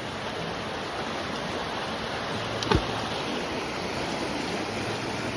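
Rushing water of a creek swollen by rain runoff from the hills, a steady flow, with one brief knock a little past halfway.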